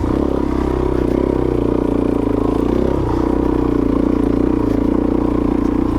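Suzuki DRZ400S's single-cylinder four-stroke engine running at steady, low revs as the bike climbs a trail, pulling without the clutch.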